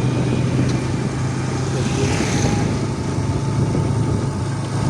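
Motorcycle engine running steadily while riding, its low hum under a continuous rushing wind and road noise.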